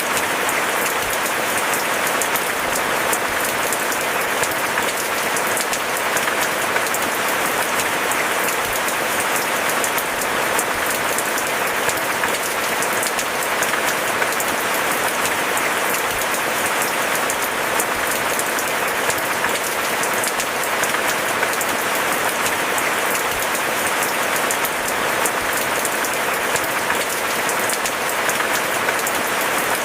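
Steady rain: a dense, even hiss of countless drops falling, with no break or change in intensity.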